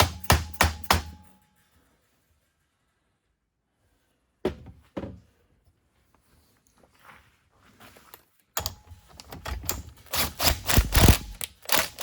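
Rapid hammer taps on a motorcycle engine's crankcase, knocking the case halves apart: a quick run of strikes that stops about a second in, a pause with a couple of single knocks, then another fast, heavier run of blows near the end.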